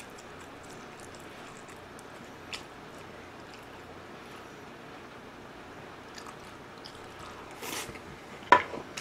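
Close-miked eating of a mouthful of gochujang pork bulgogi: faint for most of the stretch, then wet chewing and mouth sounds near the end, the loudest a sharp smack.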